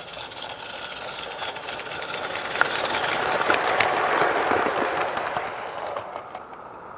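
A live-steam garden-scale locomotive and its train running past, growing louder to a peak midway and then fading, with a few sharp clicks as it passes.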